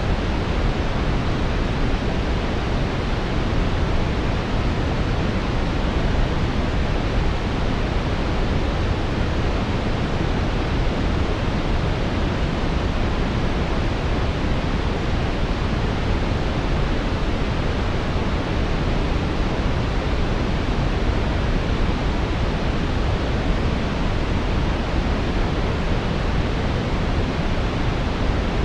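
Brown noise, synthetic and steady: a deep, even rumbling hiss, strongest in the bass, with no tones, breaks or changes.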